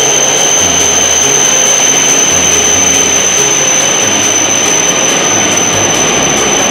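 E5 series Shinkansen train pulling into the station alongside the platform, slowing as it arrives: a loud, steady rush of running noise with a steady high whine over it and a low hum that shifts pitch in steps.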